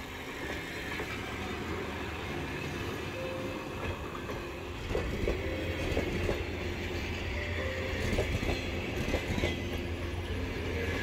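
Passenger train running on the rails: a steady rumble with scattered clicks of the wheels and faint held squeal tones, growing louder from about halfway through as it gets going again after a station stop.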